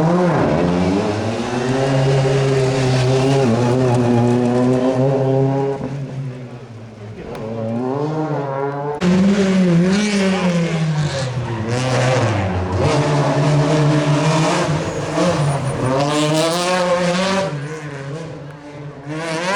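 Rally car engine driven hard on a special stage, its note climbing and dropping through gear changes and lifts off the throttle. It fades briefly about seven seconds in and again near the end, and comes back in loud and suddenly around nine seconds.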